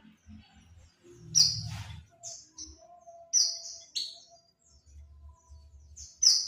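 White-eye (pleci) giving short, high chirping calls, about half a dozen spread out, the loudest about a second and a half in, twice more around three and a half to four seconds in, and again at the very end. A lure recording of the kind played to set pleci singing.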